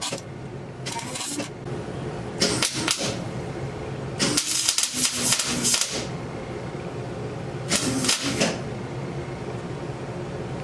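Arc welding in four short bursts of crackling, the longest nearly two seconds, with a steady hum underneath. The welding is on the center section of a truck's rear differential, to lock it solid.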